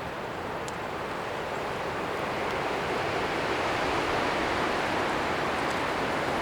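Strong wind rushing through forest trees, swelling over the first few seconds and then holding steady.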